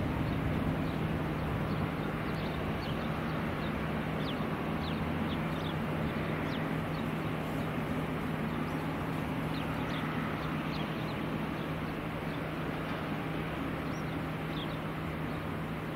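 Small birds chirping, short high falling chirps scattered through the middle, over a steady low hum and an even background rush.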